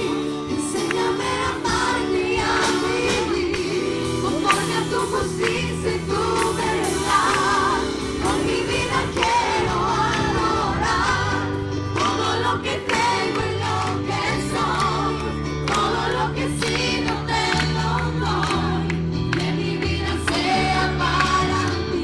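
Christian worship song sung by a group of voices over a band with bass and drums.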